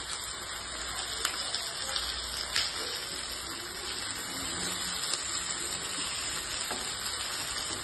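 Masala-coated mugudu pieces in banana leaf sizzling steadily in a hot pan, with a few light clicks of the spatula and tongs against the pan.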